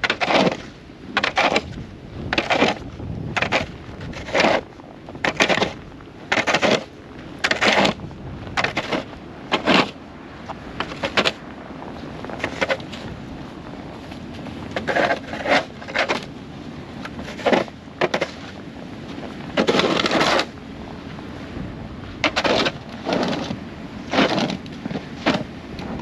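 Repeated scraping and crunching strokes in snow and ice, about one a second, with wind noise between them.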